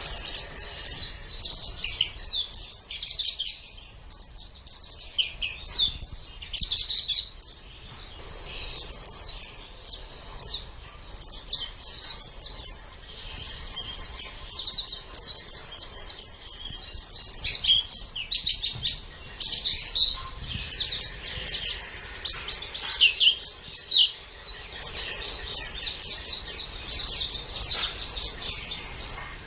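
A pleci (white-eye) singing: a long, fast twittering song of rapid high chirps and trills, with brief pauses about a quarter of the way in and again near the end.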